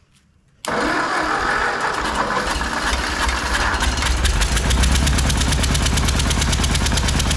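Ford 8N tractor's four-cylinder flathead engine cranked on the starter, starting suddenly about half a second in, then catching after a few seconds and running with a fast, even pulse. The owner says it started on only three cylinders.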